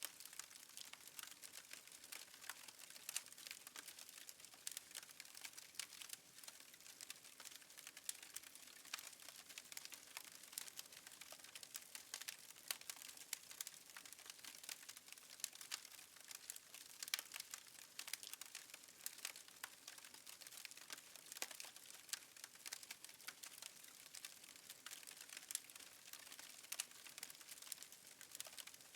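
Faint crackling of a fireplace fire: many small irregular pops and snaps over a soft hiss.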